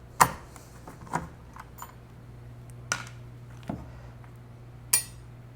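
Hard parts of a disco light fixture clicking and tapping as they are handled and worked loose by hand: about seven sharp, irregular clicks, over a steady low hum.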